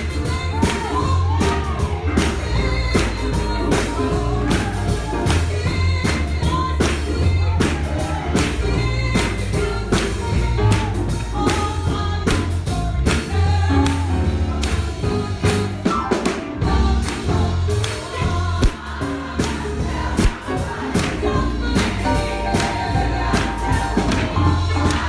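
Gospel music: a church congregation singing with a steady beat of about two strikes a second and a deep bass line.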